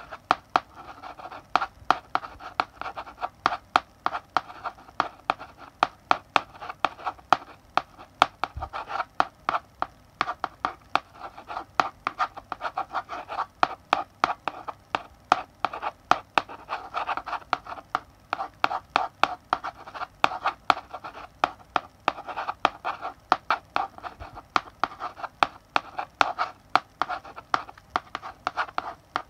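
Chalk writing on a blackboard: a steady run of sharp taps and short scratching strokes, several a second, as letters are written.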